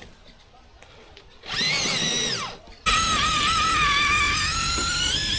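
Electric motor and geartrain of a radio-controlled rock crawler whining under throttle. One short burst rises and falls in pitch about 1.5 s in, then from about 3 s in a loud, steady high whine is held as the tyres struggle to bite on soft ground.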